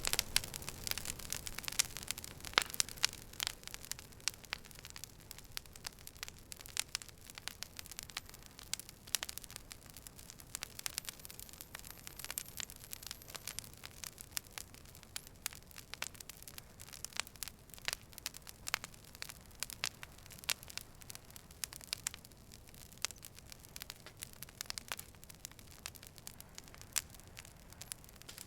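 Campfire burning, with irregular sharp crackles and pops over a soft hiss.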